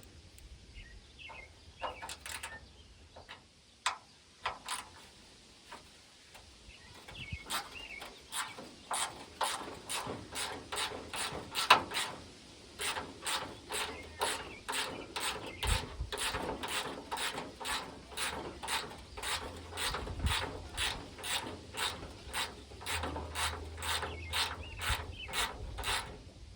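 A hand ratchet wrench clicking as it backs out the bolts holding a tailgate latch. A few scattered knocks and clicks come first, then from about a quarter of the way in a long, even run of ratchet clicks, a few a second.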